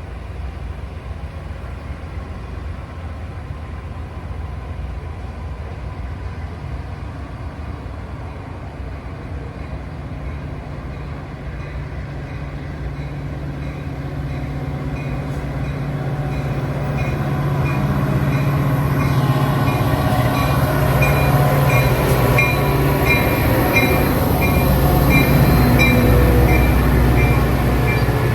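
Train approaching and growing steadily louder as it nears, with a low engine hum. In the second half comes a high ringing that repeats about twice a second.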